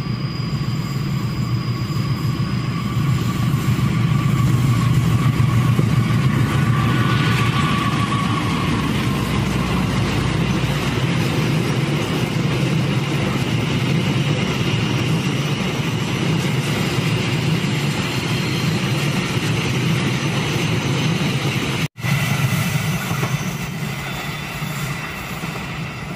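Diesel-hauled passenger train passing close on curved track: the locomotive's engine and the coaches' wheels rumbling over the rails. It is loudest a few seconds in, then dies away as the train moves off. The sound cuts out for an instant near the end.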